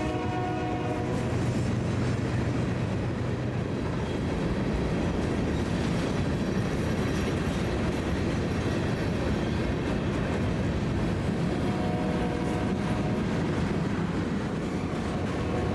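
Train rolling past with a steady rumble of wheels on rail, its horn ending about a second in and sounding again briefly about twelve seconds in.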